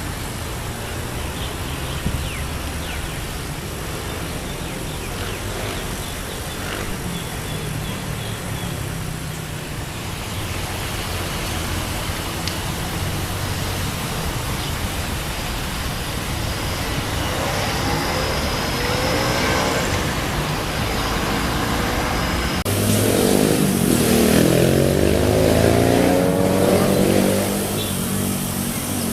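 Steady traffic noise with a low engine hum. In the last third an engine passes close by, its pitch rising and then falling as it goes past.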